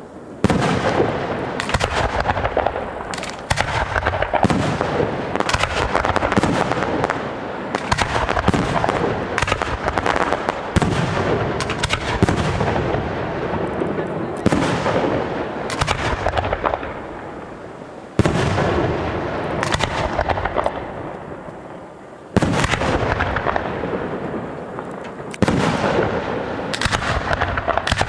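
Fireworks display: a rapid series of aerial shell bursts, a dozen or more sharp booms, each fading away, with dense crackling between them.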